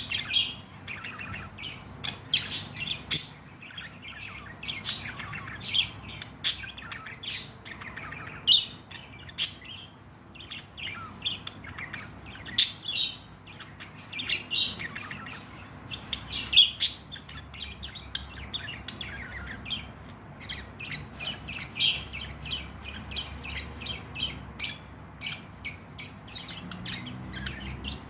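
Budgerigar chattering and warbling: a continuous, rapid stream of chirps, squeaks and short whistled notes, with louder sharp calls every second or two.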